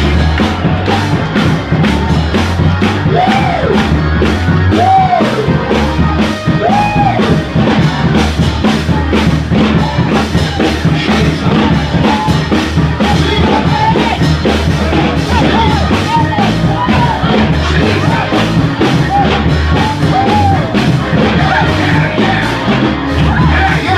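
Loud live church praise music with a fast, steady drumbeat, with voices singing and shouting over it.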